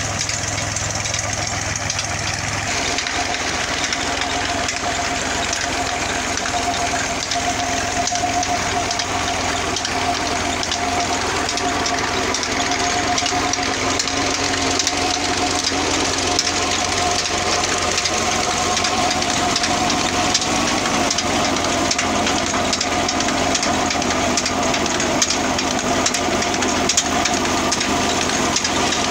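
New Holland 55.56 tractor's diesel engine running steadily while driving an implement through its PTO shaft. A steady whine joins the engine about three seconds in.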